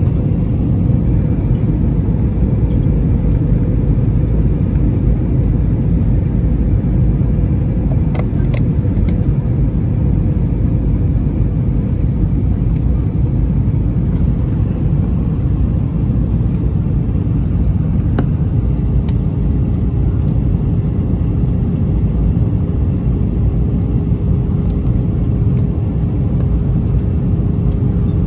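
Steady cabin noise of an Airbus A320-214 in flight: a loud, even low rumble from the engines and airflow with a faint steady hum. A few faint clicks sound about eight seconds in and again near eighteen seconds.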